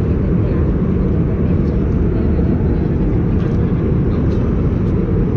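Steady, even cabin noise of an Airbus A320-232 in flight: the low rumble of airflow and its IAE V2500 engines heard from inside the cabin.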